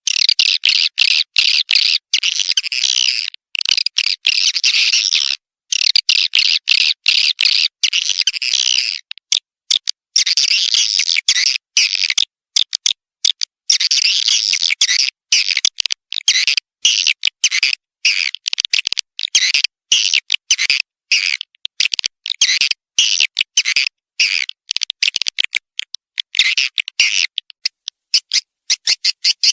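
Swiftlet lure call track: dense, high twittering chirps played in runs. Each run is broken by many short, abrupt silent gaps.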